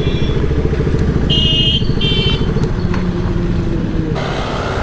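KTM 200 Duke's single-cylinder engine idling steadily while the bike stands stopped. Two brief high beeps come through about a second and a half and two seconds in.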